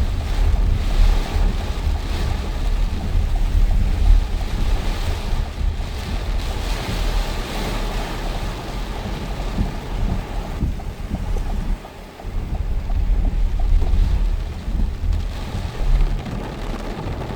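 Storm wind buffeting the microphone, a deep gusty rumble that swells and eases, with a brief lull about twelve seconds in.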